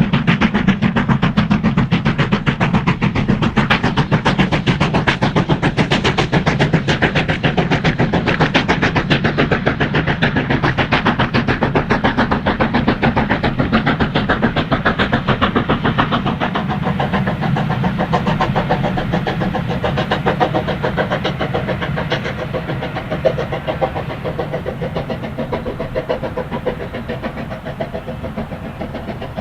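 LMS steam locomotive working hard up a steep gradient: a rapid, even chatter of exhaust beats that grows fainter over the last ten seconds or so as it draws away.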